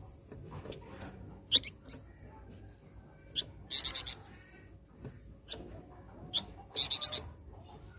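A flamboyan songbird singing: scattered high-pitched chirps and two loud, short, rapid trills about three seconds apart. This is a lure song played to get kept birds singing. A faint steady high whine runs under it.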